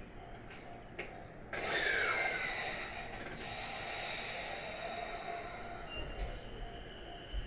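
Electric commuter train pulling out of a station: a sudden hiss starts about a second and a half in, then a steady running noise with a faint, changing motor whine.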